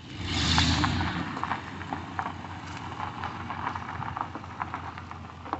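Tow truck engine surging about a quarter second in, then running on with a scatter of crackles and pops.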